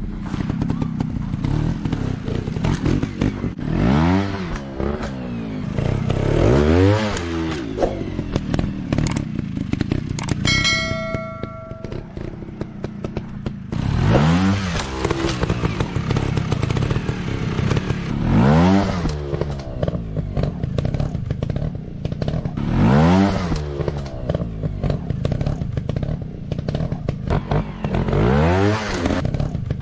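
Dirt bike engines revving, the pitch climbing and dropping again every few seconds, with a short ringing tone about ten seconds in.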